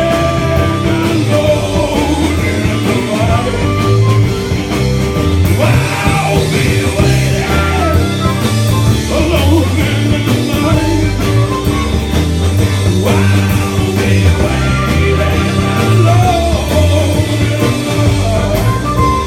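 Live country band music: bass and drums keeping a steady beat under guitar, with bending melody lines above.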